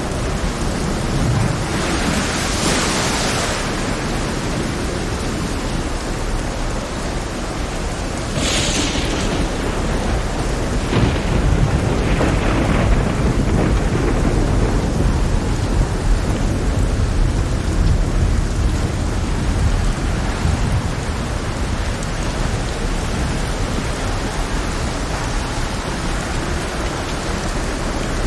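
Heavy rain falling steadily, with thunder. There are two sharp cracks, one about two seconds in and one near nine seconds, then a long low rumble that swells from about eleven seconds and fades again by about twenty.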